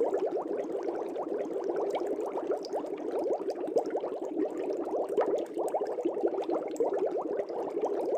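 Aquarium air bubbles rising through the tank water, a steady, dense bubbling.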